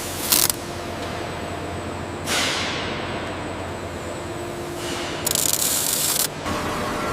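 Pneumatic tools at work during wing bolting: a short burst of compressed-air hiss, another about two seconds in that fades away, and a longer, loud hiss about five seconds in, over a steady machinery hum.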